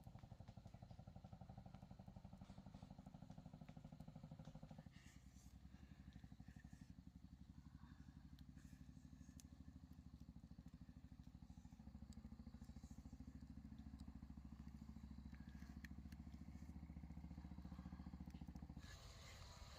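A small engine running with a fast, even putter. Its note shifts about five seconds in and again about twelve seconds in, and it cuts off about a second before the end.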